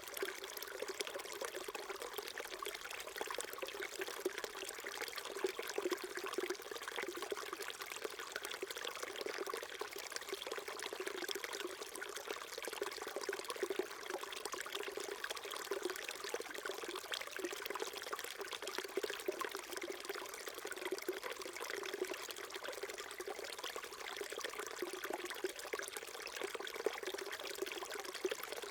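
Small stream babbling and trickling steadily over rocks.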